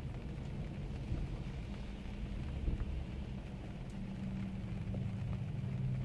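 Car driving in rain: a steady low engine hum and road noise, with faint raindrop ticks.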